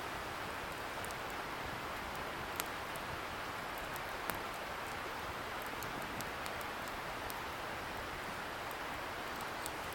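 Firewood burning in an open bonfire, crackling with scattered small pops, the sharpest about two and a half and four seconds in, over the steady hiss of a river flowing at a distance.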